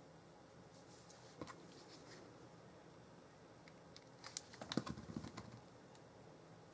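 Card and paper being handled on a craft table: a couple of small clicks, then a quick cluster of light taps and clicks about four to five seconds in, over quiet room tone.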